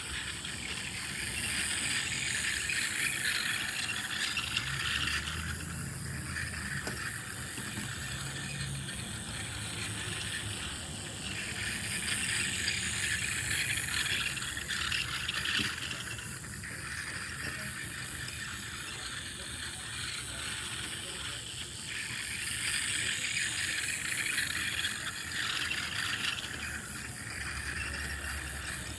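Two small toy trains running on their track: a steady mechanical clicking rattle of small motors and wheels, with a faint high whine, growing louder and fading three times as the trains pass close.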